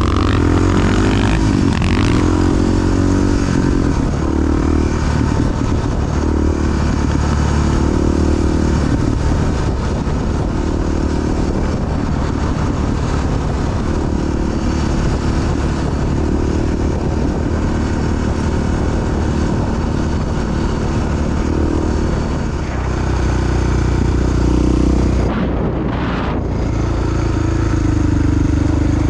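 Big single-cylinder four-stroke Honda XR dual-sport motorcycle being ridden, its engine pitch rising and falling again and again with the throttle.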